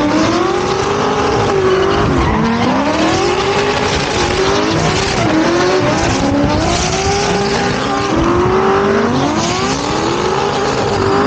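Drift car engines revving hard, the pitch climbing and dropping again every second or so, over steady tyre squeal.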